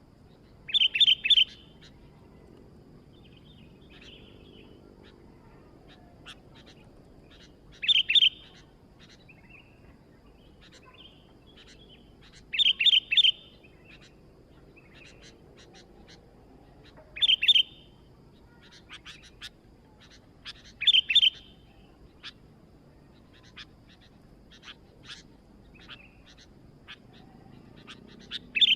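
Sooty-headed bulbul (kutilang) calling: short bright phrases of a few quick notes, repeated about six times at gaps of four to five seconds, with fainter chirps in between.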